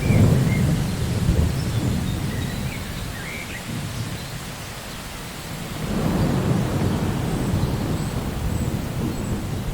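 Steady rain with rolling thunder. One low rumble breaks right at the start and fades over a few seconds, and a second swells about six seconds in.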